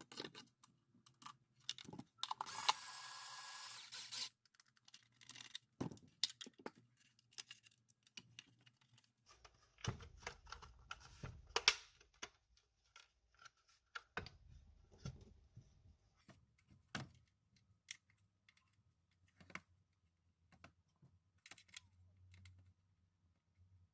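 Irregular clicks and light knocks of the vacuum's plastic parts being handled, with a hiss lasting under two seconds near the start.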